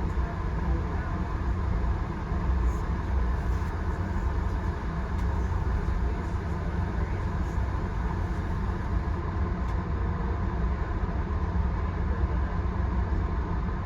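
Passenger train in motion heard from inside a coach: a steady low rumble of wheels on rail, with a few faint ticks.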